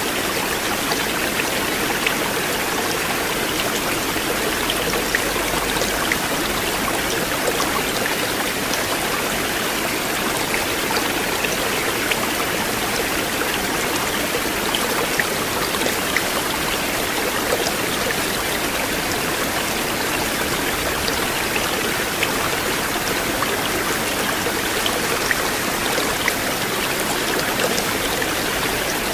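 Flowing river water: a steady, even rush with small splashing ticks scattered through it.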